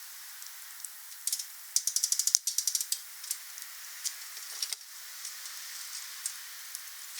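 Wood fire crackling: a steady hiss with sharp pops, a fast flurry of crackles about two seconds in, then scattered pops.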